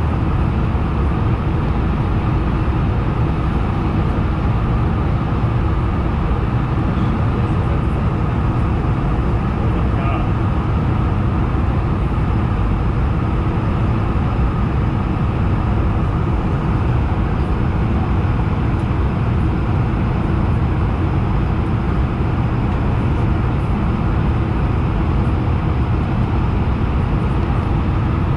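Steady cabin noise inside an Airbus A220-100 in flight: an even drone of its geared turbofan engines and the rush of air past the fuselage, with a few faint steady tones.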